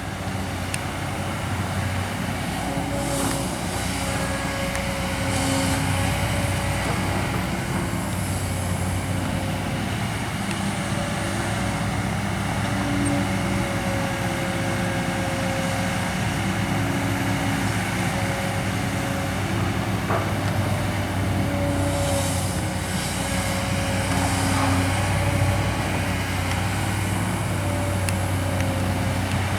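Kobelco SK200 hydraulic excavator's diesel engine running steadily while it digs, its note shifting slightly as the work loads it.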